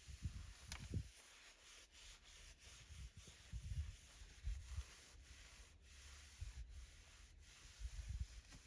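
Microfiber cloth wiping and rubbing the car's interior surfaces: faint, irregular scuffing strokes with soft low bumps, and a light click under a second in.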